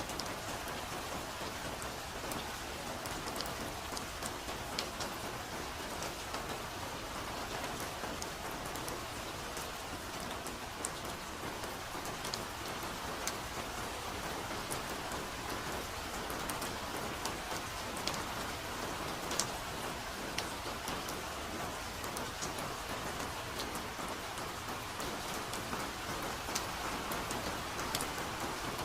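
Steady soft rain falling, an even hiss with scattered sharper patter of individual drops.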